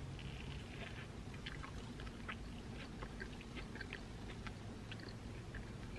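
Faint chewing of a mouthful of crispy chicken sandwich: soft, scattered, irregular mouth clicks over a low steady hum.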